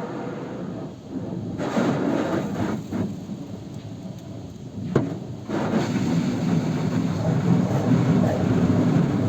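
Water spraying onto a car, a rushing noise that comes and goes and turns louder and steadier about halfway through, with a single sharp click about five seconds in.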